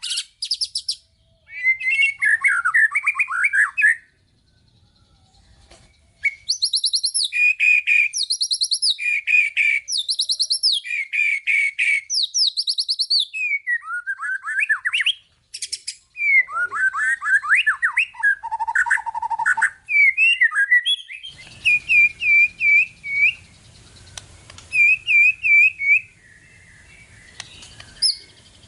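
White-rumped shama (murai batu) singing a long, varied song of rapid trills, repeated whistled notes and high chattering phrases, packed with mimicked calls. There is a short pause a few seconds in, and a faint low hum joins behind the song in its later part.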